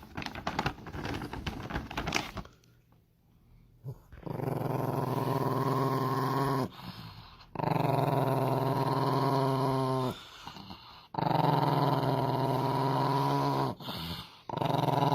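A dog growling in four long, drawn-out growls, each two to three seconds long, after a brief rattling noise at the start.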